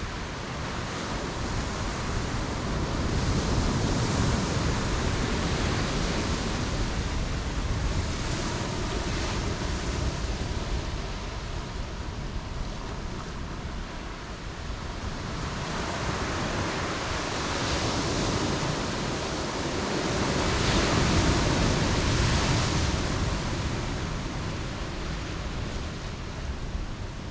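Ocean surf breaking on the shore in slow swells: one wave builds and washes in about four seconds in, and a second, louder one a little past twenty seconds.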